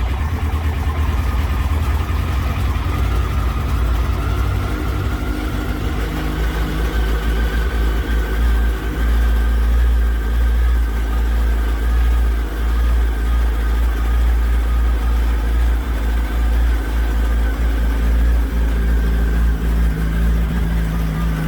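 Repaired Yamaha YZF-R1 inline-four motorcycle engine running at idle just after starting, a steady low rumble.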